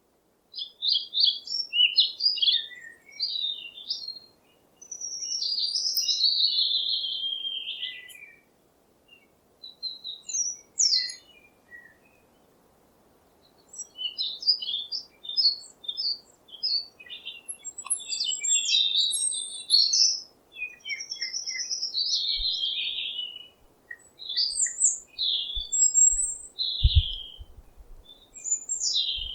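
Songbirds chirping and singing in phrases of quick high notes and short trills, with brief pauses between phrases. A few low thumps come in near the end.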